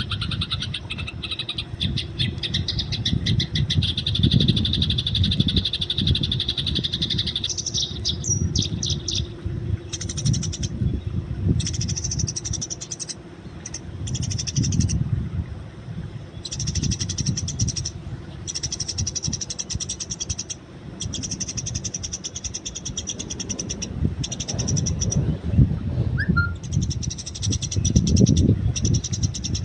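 Eurasian tree sparrows chirping in rapid, fast-repeated trains, coming in stretches of a few seconds with short breaks, over a loud, uneven low rumble.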